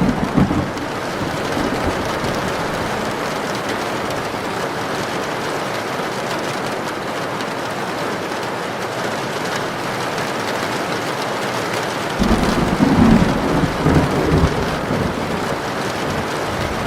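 Heavy rain falling steadily, with low rumbles of thunder right at the start and again about twelve seconds in, the second lasting a couple of seconds.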